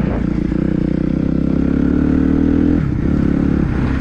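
Dirt bike engine running under throttle, its pitch climbing steadily for nearly three seconds, then dropping sharply and picking up again.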